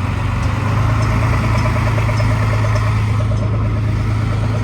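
Loader diesel engine idling steadily, a low hum with a fast, light ticking over it.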